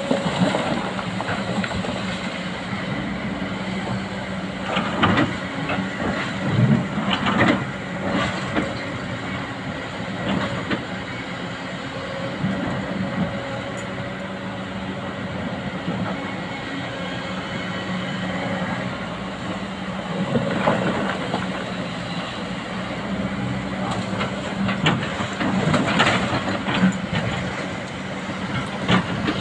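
Hydraulic excavator's engine running steadily, with a few loud metallic clanks and knocks from the machine at work.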